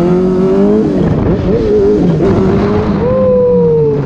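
Sport motorcycle engine running under way, its pitch climbing with the throttle, dropping at a shift just under a second in, then wavering and settling to a near-steady drone, over a steady rush of wind noise.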